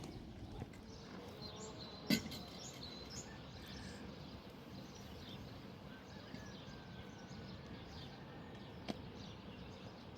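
Outdoor ambient noise with faint, scattered bird chirps. A sharp click comes about two seconds in and a smaller one near the end.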